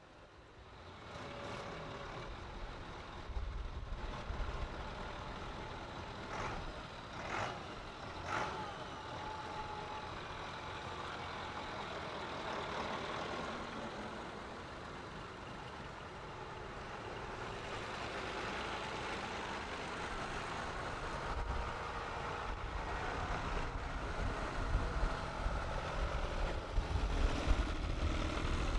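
Several tractor engines running as the tractors move off, with three short sharp sounds about six to eight seconds in. The engine noise grows louder through the second half.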